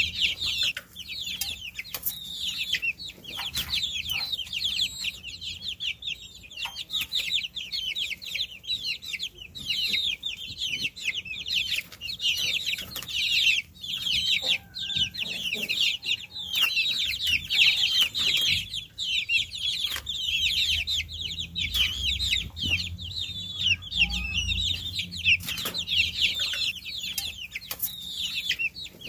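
Many baby chicks peeping continuously: a dense chorus of short, high-pitched chirps that overlap, each sliding down in pitch, with occasional sharp clicks.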